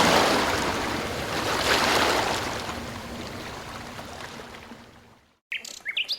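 Ocean surf washing in swells and fading out over about five seconds. After a brief silence, a few short, high bird chirps come in near the end.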